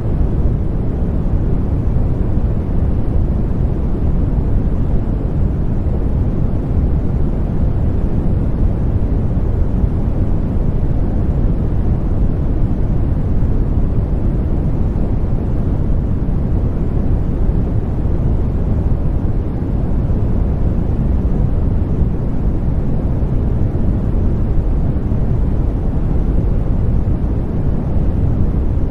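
Continuous baby-sleep white noise: an even, unchanging rush weighted toward a deep rumble, with little hiss.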